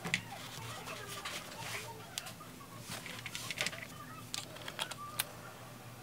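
Plastic drain pipe sections and slip nuts being handled and fitted: scattered light clicks and taps of plastic parts, with a faint voice in the background.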